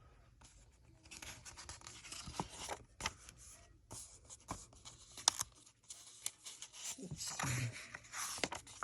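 Magazine pages being handled and turned: faint, irregular rustling and sliding of paper, with a few sharp clicks.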